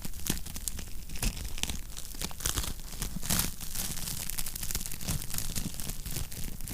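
Wood fire crackling in a fireplace: dense, irregular pops and snaps over a steady low rumble of flame.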